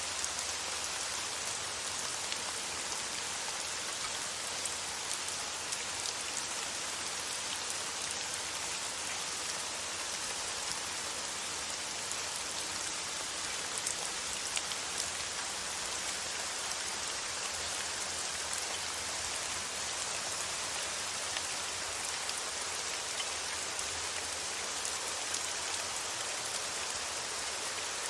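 Steady rain falling on a surface, a constant hiss with fine scattered drop ticks, used as a calming rain-sound loop.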